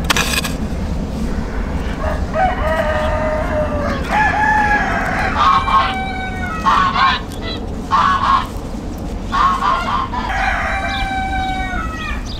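A bird calling over and over in a series of pitched calls with falling glides, beginning about two seconds in and stopping just before the end. At the very start a hoe blade strikes the soil once.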